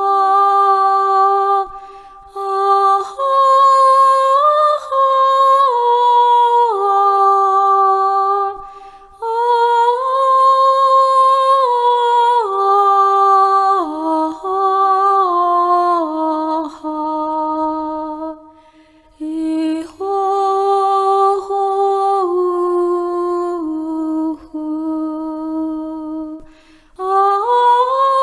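One person's voice improvising a slow, wordless melody in long held notes that step up and down in pitch, in phrases broken by short pauses for breath: free vocalizing used as sound therapy.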